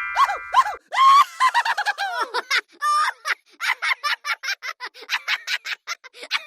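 High-pitched, squeaky chirping sound effect: wavering, bending squeaks in the first few seconds, then a fast, even run of short squeaks at about four to five a second.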